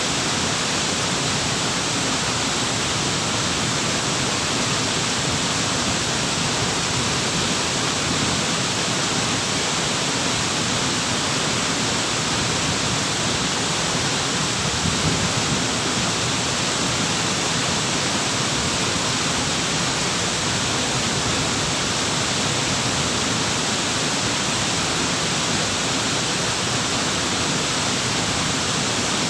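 Waterfall, water falling and rushing in a steady, even roar of noise.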